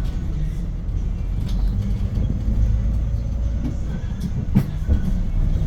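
Cabin noise of a 2022 Hyundai New Super Aerocity city bus under way: the steady low drone of its rear-mounted CNG engine (C6AF, 290 PS) and road noise. A few short rattles or knocks come about a second and a half in and again near the end.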